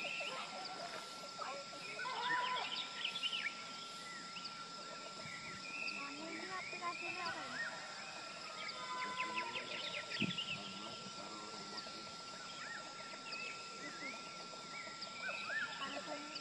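Birds calling: many short chirps and whistled notes, some rising and some falling, scattered irregularly over a steady high tone.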